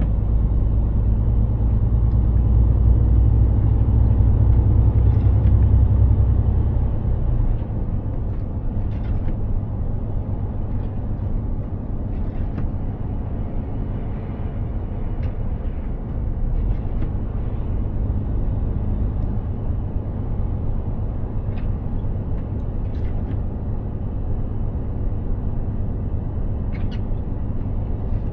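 Mercedes-Benz Actros 2763 truck driving, its engine and road noise making a steady low drone that is heavier for about the first seven seconds, then drops to a lower level. A few faint clicks come through later.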